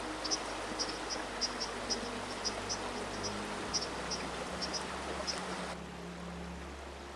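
River water rushing steadily under faint background music, with short high ticks a few times a second that stop about six seconds in.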